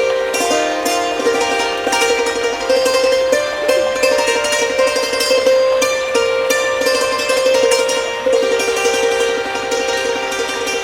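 Thai khim, a hammered dulcimer, playing a slow, calm melody, its notes sustained by rapid repeated strokes of the hammers.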